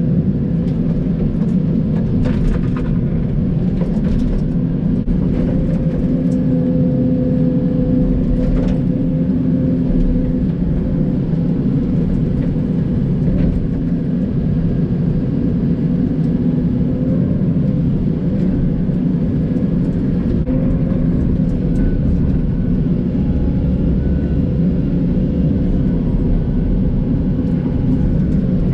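John Deere 85G excavator's diesel engine running steadily at working speed, with a few sharp knocks early on.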